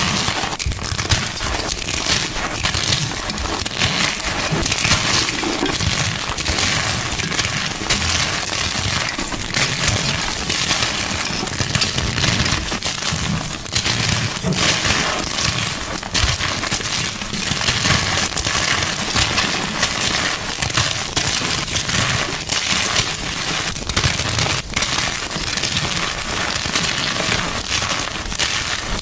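Gym chalk being crushed: dense, continuous crunching and crackling as the blocks break and crumble, with many small cracks in quick succession.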